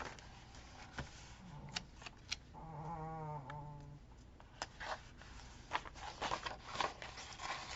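A sleeping pet snoring: one low, drawn-out snore lasting about a second and a half, around three seconds in. Light rustles and taps of sticker sheets being handled come through behind it.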